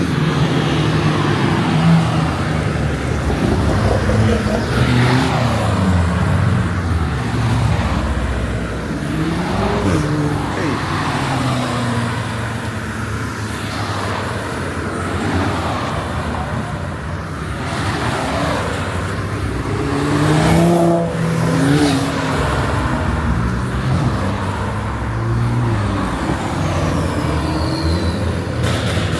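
Cars driving past one after another, their engines revving, the engine notes rising and falling as each accelerates by.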